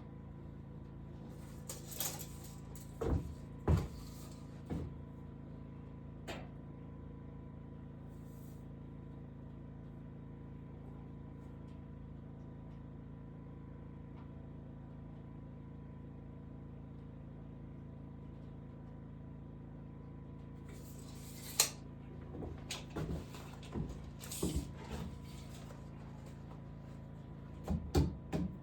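Scattered knocks and clatters of wooden things being handled, bunched near the start and again in the last several seconds, over a steady low hum; the middle stretch holds only the hum.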